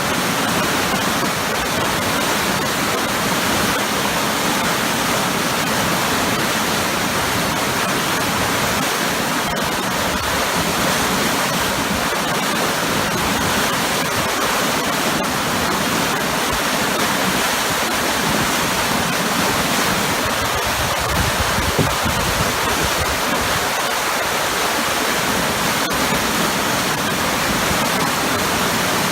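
Waterfall pouring into churning water: a powerful, steady rush.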